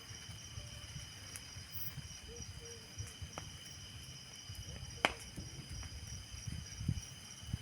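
Night insects, crickets among them, chirping steadily in high, unbroken tones, one of them pulsing. A low rumble runs underneath. A few short, sharp clicks stand out, the loudest about five seconds in.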